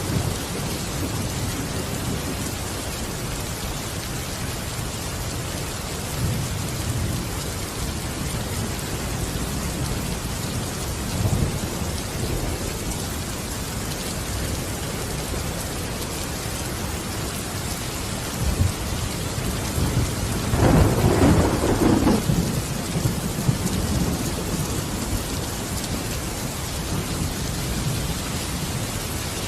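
Steady heavy rain falling, with low rolls of thunder, the loudest about two-thirds of the way in.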